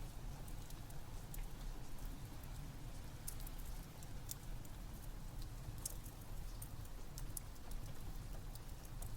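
Steady rain with a low rumble, over the irregular sharp pops and crackles of a wood fire burning in a fireplace.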